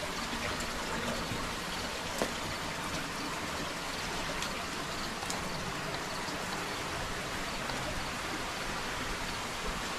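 Steady rush of water flowing through a rock cave, with a few faint clicks, the sharpest about two seconds in.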